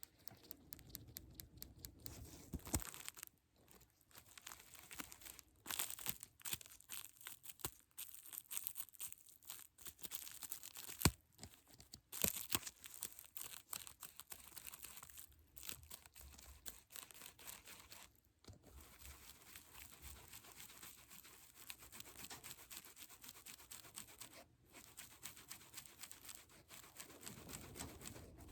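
Close-miked crinkling and crackling handling noises, with many fine clicks and a sharp tap about eleven seconds in, broken by a few short pauses.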